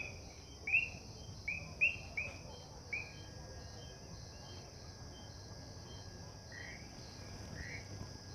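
Short high chirping calls, each dropping quickly in pitch, repeated every half second or so for the first three seconds, then a few fainter ones near the end. Underneath runs a steady high-pitched night chorus of frogs.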